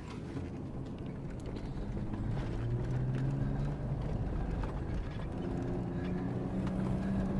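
Toyota Land Cruiser 80-series engine revving under load while the truck drives through deep snow: the revs climb, ease off about halfway through, then rise again to a higher steady drone.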